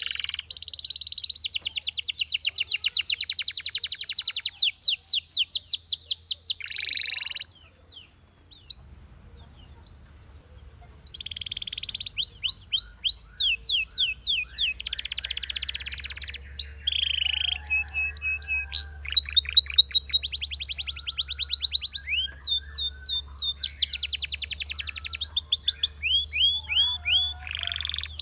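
Belgian canary singing: fast trills and rolls of rapidly repeated sweeping notes, broken by a pause of a few seconds about a third of the way in.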